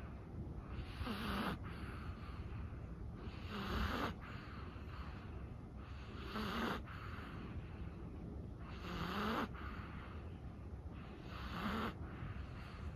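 Chihuahua snoring in her sleep: five slow, evenly spaced breaths, about one every two and a half seconds, each with a short snore.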